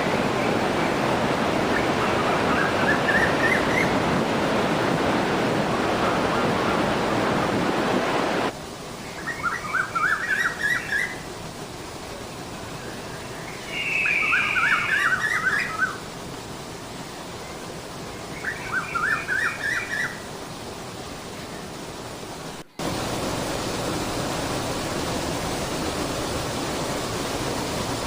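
Steady rush of falling water, loud for about the first eight seconds and then softer. Over the softer stretch there are three short bursts of bird calls and trills. After a sudden cut, a steady rush of water runs on again.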